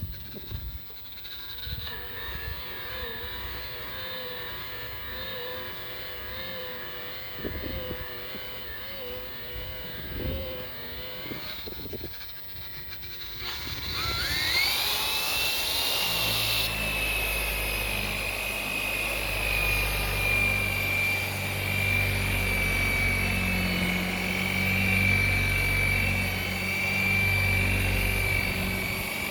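Dewalt DWP849X rotary buffer running slowly at first, then about halfway through spinning up with a quick rising whine and running steadily at a higher speed, compounding boat gelcoat.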